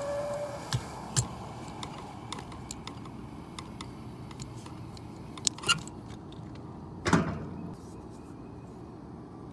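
Scattered clicks and knocks of things being handled, with the loudest knock and a brief ringing tail about seven seconds in, and a short steady tone at the very start.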